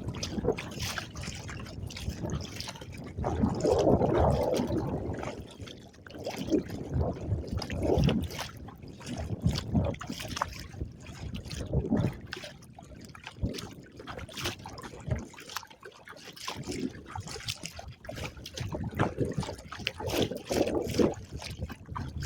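Choppy lake water splashing and slapping irregularly against a small recreational kayak's hull, with a louder splash about four seconds in.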